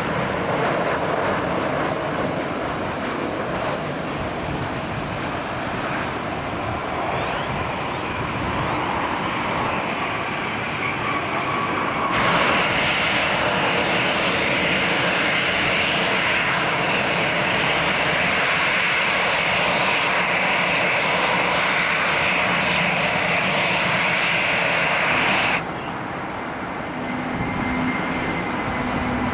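Airplane engines running with a steady rushing noise. The noise gets louder and brighter about twelve seconds in, then cuts off suddenly some thirteen seconds later.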